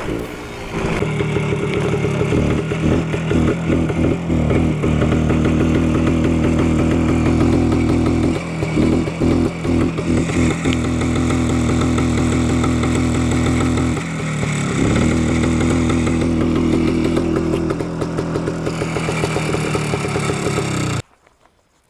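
Minsk motorcycle's single-cylinder two-stroke engine running under way at steady revs. Its note drops briefly and climbs again twice, and the sound cuts off suddenly near the end.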